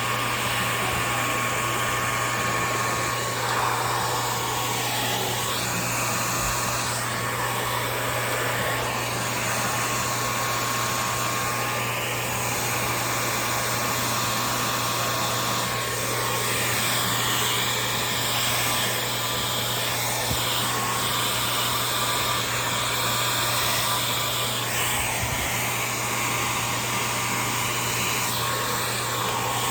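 Handheld hair dryer running steadily, its airflow changing in tone now and then as it moves over the hair.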